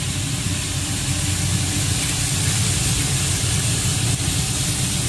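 Sliced meat sizzling in a hot wok over a gas burner, a steady hiss with a constant low rumble underneath.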